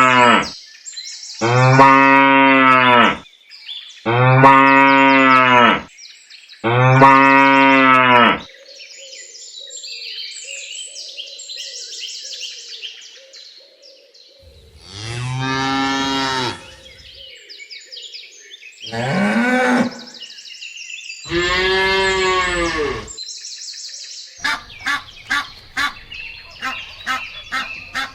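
Cows mooing: four long moos one after another, then a quieter stretch, then three more moos of varying pitch. Near the end a quick run of short calls, about three a second, from ducks quacking.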